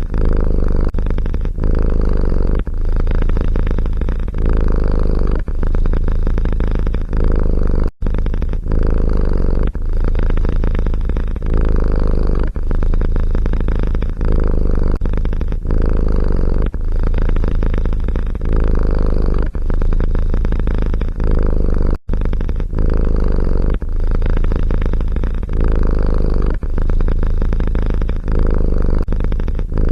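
Domestic cat purring loudly and close up, the purr rising and falling with each breath about once a second.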